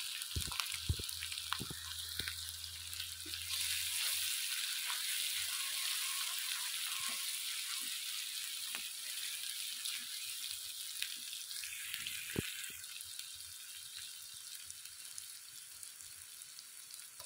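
Sliced onions with ginger-garlic paste sizzling in hot oil in a pan, with scattered taps and scrapes of a wooden spatula stirring them. The sizzle eases a little toward the end.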